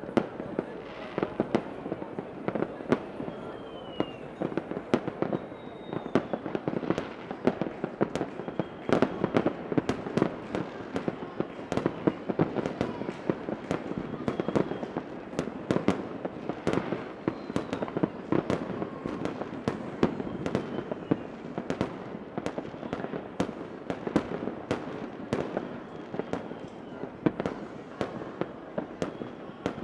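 Fireworks going off continuously: many sharp bangs and crackles in quick, irregular succession, with faint rising whistles of rockets now and then.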